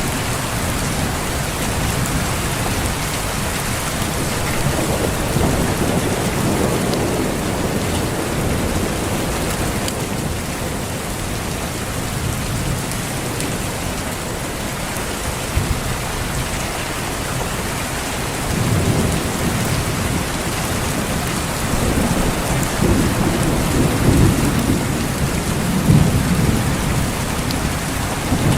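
Steady heavy rain falling, with rolls of thunder rumbling low beneath it: one swell a few seconds in, then longer rumbles from about two-thirds of the way through, loudest near the end.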